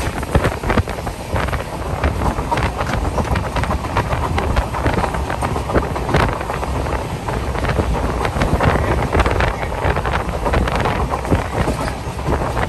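Wind buffeting the phone's microphone at the open window of a moving passenger train, over the train's steady running noise with frequent short knocks and rattles.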